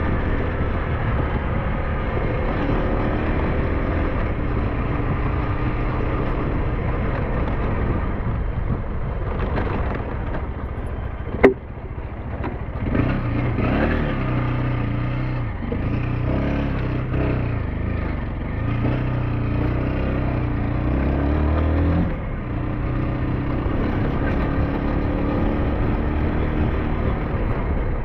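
SYM NH T 200 scooter's single-cylinder engine running under way, its revs rising and falling, with one sharp knock a little before halfway.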